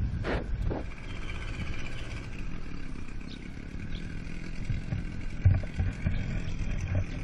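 Small outboard motor running steadily with a low drone and a faint whine. Two short falling sweeps come just after the start.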